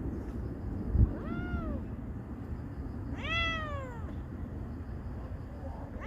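A stray cat meowing twice: a short meow about a second and a half in, then a longer, louder one about three seconds in, each falling in pitch at the end. A short low thump sounds just before the first meow.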